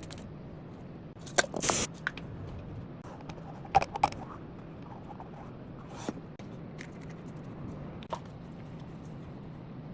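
A low, steady hum with a few short scrapes and clicks of handwork on metal or wood.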